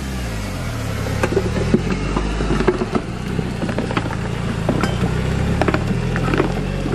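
Car engine running while the car drifts, its revs rising and falling, with scattered sharp ticks and crackles over it.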